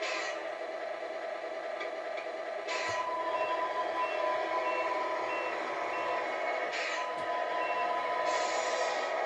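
Tamiya MFC-03 sound unit in a 1/14 Volvo FH16 RC tow truck playing its simulated truck sounds: a steady diesel running sound with a reversing beeper going about twice a second, and three short bursts of hiss.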